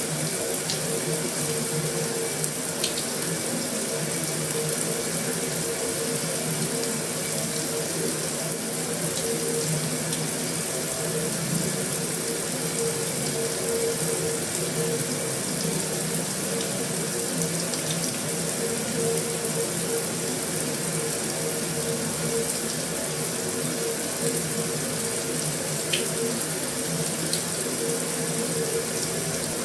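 Heavy rain falling steadily on a metal roof, with a few sharper drop ticks here and there.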